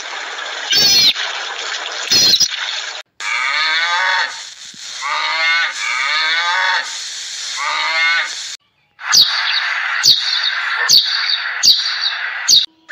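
A few short high animal calls, then cattle mooing three long times, then house sparrows chirping repeatedly over the last few seconds.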